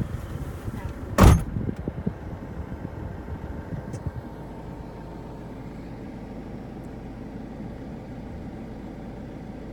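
A single loud thump about a second in, after which the wind hiss cuts away and a steady low vehicle hum remains, as when a car door is shut against the wind.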